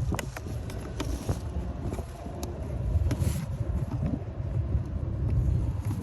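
Low rumbling noise with a few sharp clicks: hands and a screwdriver working at the blower fan housing under a car's dashboard.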